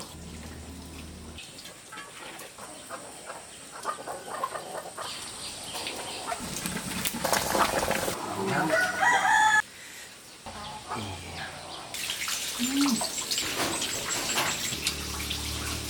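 Farmyard chickens clucking and a rooster crowing, loudest about eight or nine seconds in and cut off abruptly just after.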